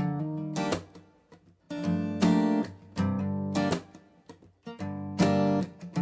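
Background music: acoustic guitar strumming chords, about one strum a second with short pauses between.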